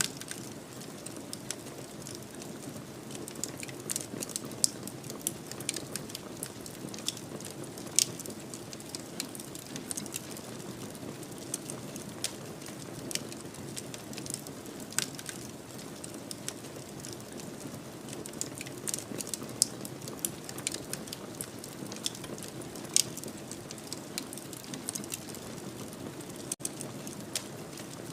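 Fireplace fire crackling: irregular sharp pops and snaps, a few of them louder, over a steady low hiss of the flames.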